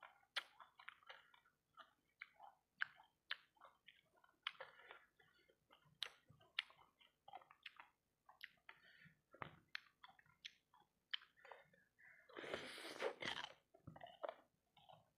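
Close-miked chewing of fried rice balls coated in sauce: a constant run of short, wet smacking and crunching clicks, with a louder, longer rush of noise about twelve seconds in.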